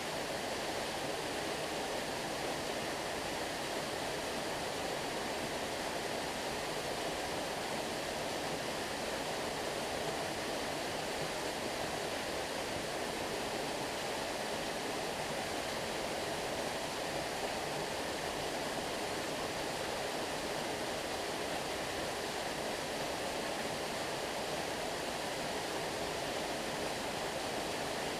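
Flowing stream: a steady, unbroken rush of moving water.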